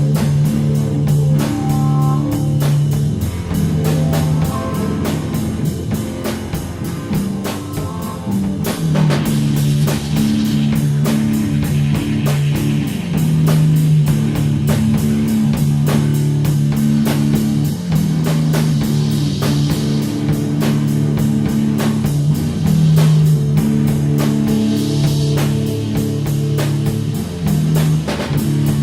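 Stoner rock instrumental: guitars and drum kit play a repeated low riff over a steady beat.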